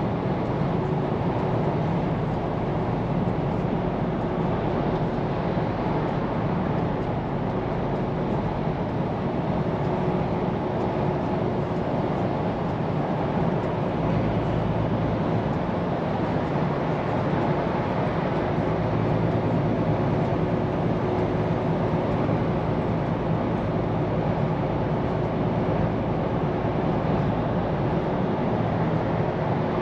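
Scania P410 truck's diesel engine running steadily while driving, with tyre and road noise.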